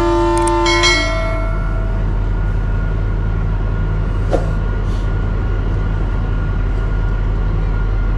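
Kalka–Shimla narrow-gauge toy train's horn sounding a multi-note chord that ends about a second in with a short lower note. Then the train runs on with a steady low rumble, and there is one sharp click about four seconds in.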